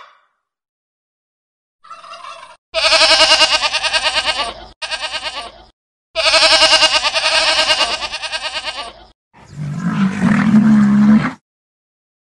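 Animal calls: three long, loud, wavering cries after a short faint one, then a lower, rougher call near the end.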